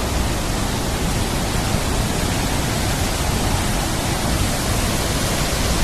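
Steady, loud rushing noise of water in a heavy monsoon downpour.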